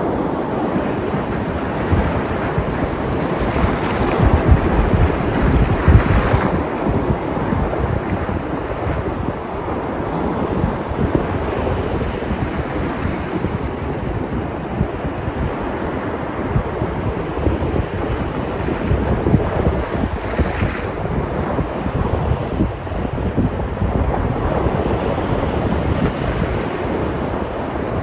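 Sea surf washing onto the shore in a continuous rush, with wind rumbling on the microphone. A wave surge swells louder about four to six seconds in.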